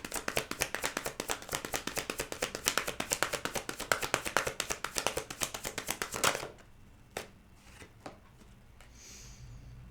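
A tarot deck being shuffled by hand: a fast, even run of card flicks lasting about six seconds, then a few single clicks.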